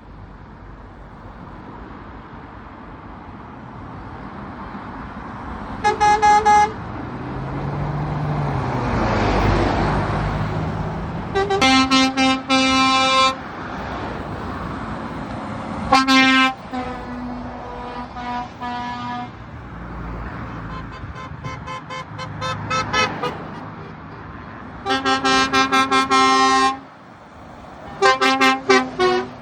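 Trucks sounding their horns repeatedly as they drive past: a string of loud blasts, some short toots in quick runs and some held for a second or more. Under them a truck engine passes, swelling and fading about nine seconds in.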